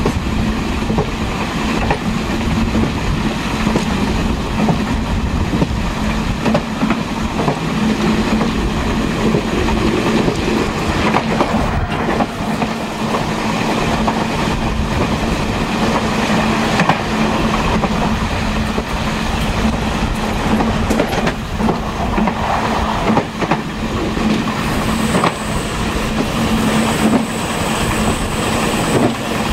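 Taiwan Railways Chu Kuang express parlor car running along the line, heard from the rear of the train: a steady rumble of wheels on track with the clickety-clack of rail joints and a steady low hum. A faint high whine sets in near the end.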